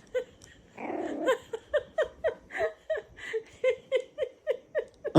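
Hearty laughter in a long run of short, even pulses, about three or four a second, after a breathy burst about a second in.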